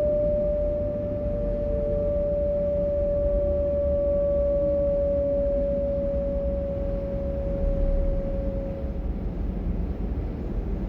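Class 425 electric multiple unit's traction converter whining on one steady note that slowly sinks in pitch and fades out about nine seconds in, over the continuous low rumble of the moving train.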